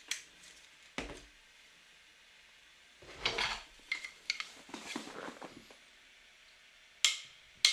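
A cockatiel moving about: sporadic light taps and clicks, with a run of scratchy rustles in the middle.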